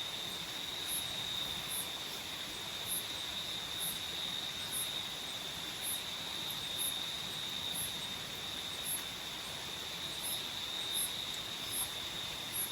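Tropical forest night insects calling: a continuous high, steady trill with short, very high chirps about once a second on top, over an even background rush of noise.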